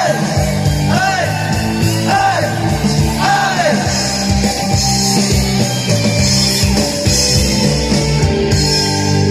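Rock band playing the end of a song: a singer's sung phrases over bass and drums for the first few seconds, then the band plays on without the voice.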